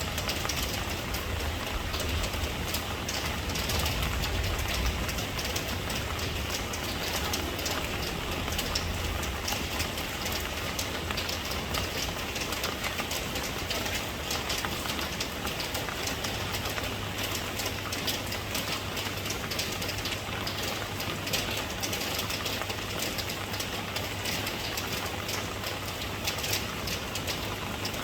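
Steady rain falling, a dense hiss full of small drop taps, over a low rumble that is stronger for the first several seconds and then eases.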